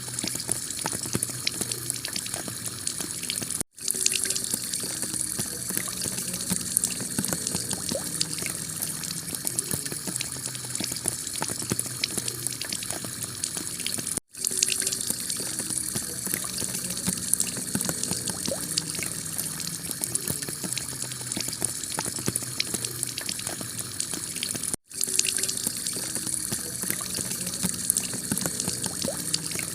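Heavy rain falling on a clay-tile roof: a steady hiss with many sharp drop ticks. The sound cuts out for an instant three times, about ten seconds apart, where the recording loops.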